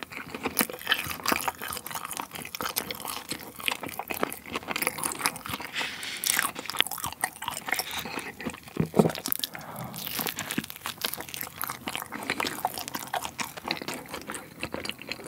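Close-miked chewing of a mouthful of double potato pizza with a cheese-filled crust: crisp crust crunching between the teeth, in a dense run of crackles and moist chewing, with no speech.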